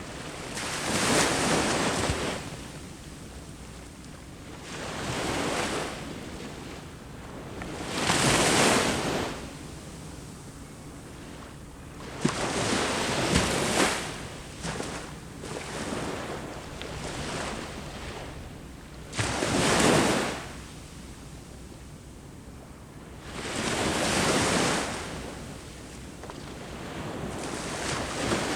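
Ocean waves breaking on a shore, each a rush of surf that swells and fades, coming about every four to six seconds.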